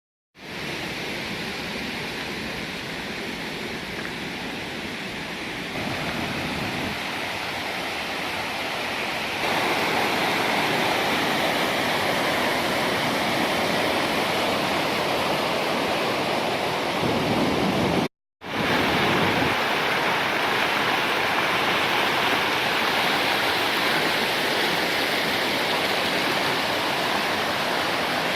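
Waterfall's falling water rushing steadily. It gets louder in two steps early on, and cuts out briefly about two-thirds of the way through before resuming.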